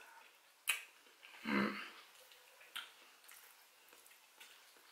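Close-up mouth sounds of chewing a forkful of soft buttered baked sweet potato: quiet wet clicks and smacks, with a sharper click just under a second in and a brief voiced hum about a second and a half in.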